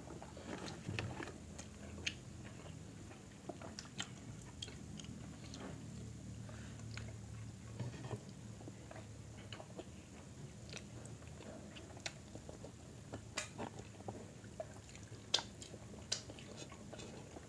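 Close-up chewing and biting of food, with scattered small wet clicks and smacks of the mouth.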